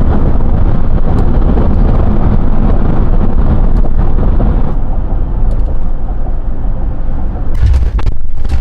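Loud, steady low rumble of a car in motion, heard from inside.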